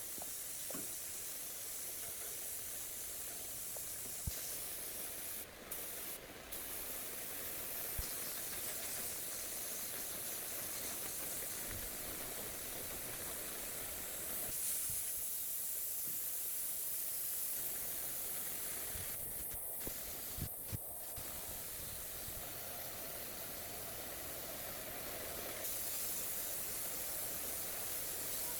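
Steady hiss of compressed air spraying, with a few brief breaks where the flow stops and restarts.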